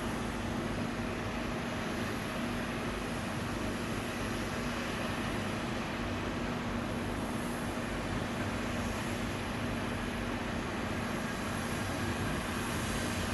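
Steady noise of jet airliner engines, with a constant low hum and no sudden changes.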